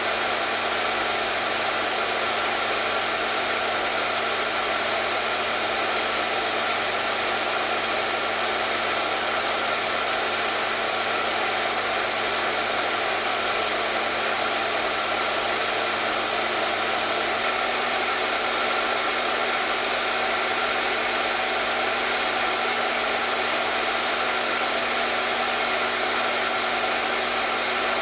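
Hair dryer running steadily: an even, unbroken rush of blowing air with a constant motor hum, whose pitch shifts slightly higher about two-thirds of the way through.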